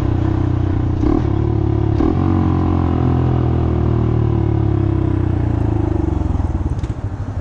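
Honda Monkey's single-cylinder four-stroke engine running under way, with brief breaks in its note about one and two seconds in, and easing off near the end.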